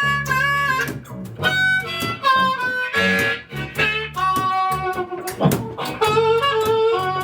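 Blues harmonica playing held notes, some sliding in pitch, over a rhythmic guitar accompaniment.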